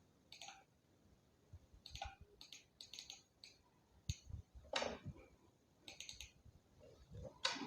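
Faint, scattered clicks of a computer keyboard and mouse, single taps and short runs of keystrokes with gaps between them.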